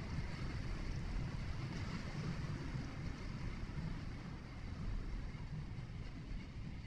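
Steady low rumble and tyre hiss of a vehicle driving along a road, heard from inside the cabin.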